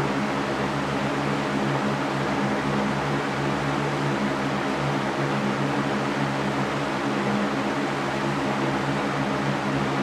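Electric fan running steadily: an even rush of moving air over a low motor hum, with no change.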